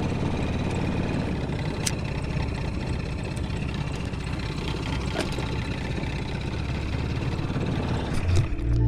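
Wind buffeting the microphone: a steady rumbling rush with a few faint ticks.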